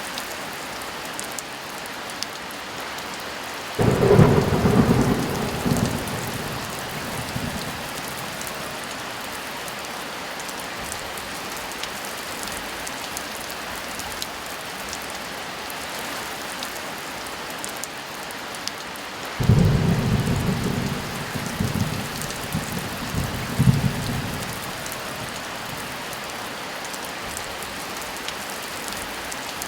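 Steady heavy rain with two rolls of thunder: one breaks sharply about four seconds in and rumbles away over a few seconds, and a second starts about two-thirds of the way through and rumbles in several surges before fading.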